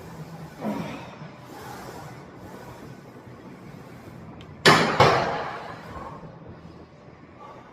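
Two sharp bangs about a third of a second apart, each fading out over about a second.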